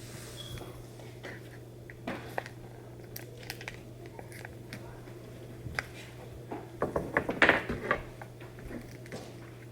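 Scattered light taps and clinks of utensils and kit pieces handled on a table while a gingerbread kit is assembled, with a quick cluster of louder taps near the end. A steady low hum runs underneath.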